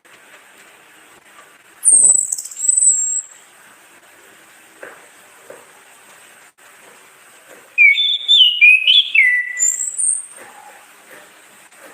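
Orange-headed thrush singing: a high whistled phrase about two seconds in, then, after a pause, a lower, quickly warbling phrase with a short high note closing it near the end.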